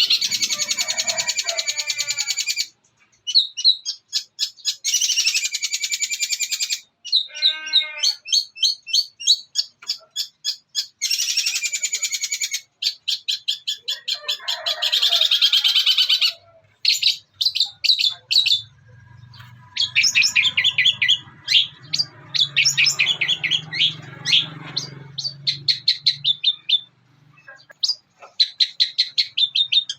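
Long-tailed shrike (cendet) singing a fast, chattering song in runs of a few seconds with short pauses, packed with mimicry such as the chatter of fighting Eurasian tree sparrows, with a few lower sliding notes mixed in.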